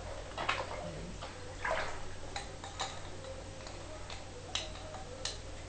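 Irregular light clicks and knocks of plastic bird-cage accessories, such as feeders and drinkers, being handled while they are rinsed in clean water.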